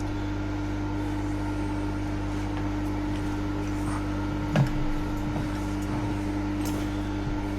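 Milling machine running with a steady hum, with one short knock about four and a half seconds in.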